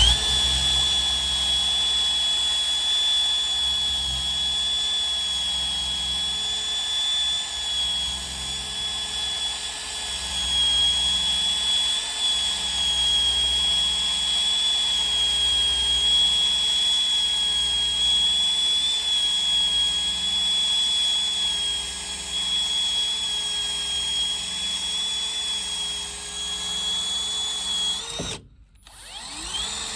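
A drill spins a rubber eraser wheel against a truck decal, giving a steady high whine under load as it scrubs the sticker off. Near the end it stops for about half a second, then spins up again.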